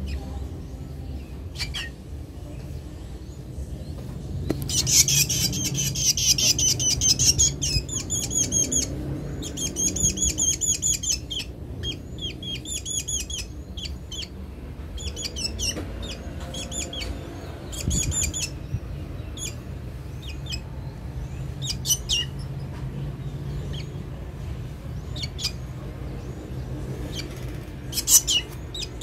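A hungry black bird chirping in quick runs of shrill, high calls, each run lasting a second or two, with single chirps in between and a fresh burst near the end.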